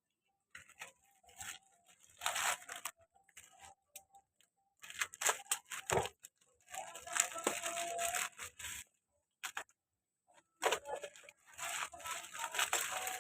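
Packaging being opened by hand: irregular bursts of rustling and tearing with short pauses between them, and a single knock about six seconds in.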